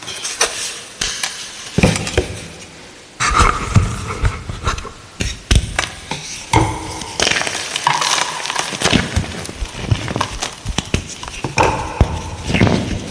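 Blocks of gym chalk being crushed: a dense, irregular run of crisp crunches and crackles, with a heavier crunch setting in about three seconds in.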